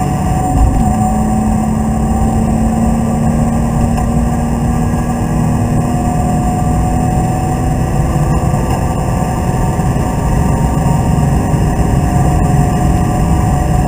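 BMW Z3 2.8's straight-six engine heard from inside the cabin, driven hard. A gear change about half a second in drops the engine note, which then holds steady and climbs slowly in the second half.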